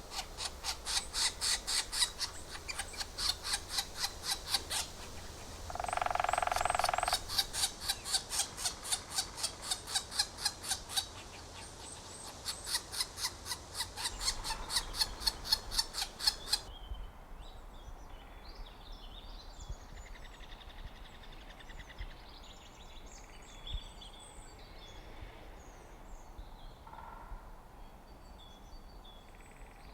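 Woodpecker giving a long run of sharp, loud calls, about three or four a second, broken about six seconds in by a brief, lower, drawn-out call. The run stops a little past halfway, leaving only faint, scattered bird chirps.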